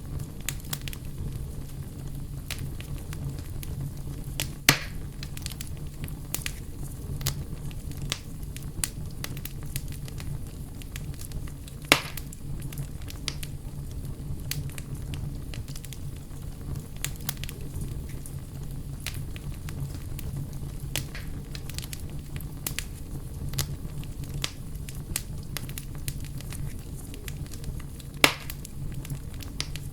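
Wood campfire burning, crackling steadily with many small snaps over a low steady rumble. Three much louder sharp pops come about five seconds in, near the middle and near the end.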